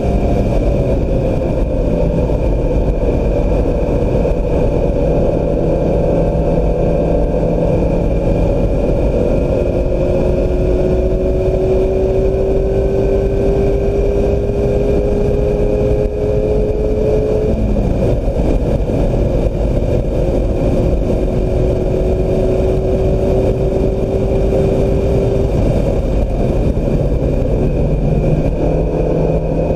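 2016 Mazda MX-5 Miata's four-cylinder engine driven hard, its pitch climbing slowly through long pulls that break off about two-thirds of the way through and again near the end, over heavy wind and road noise.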